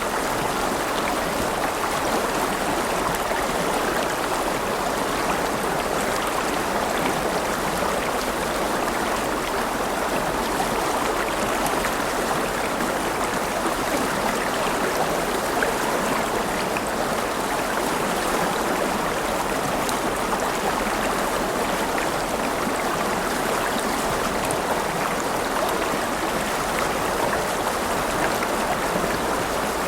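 River water flowing over rocks, a steady even rushing sound.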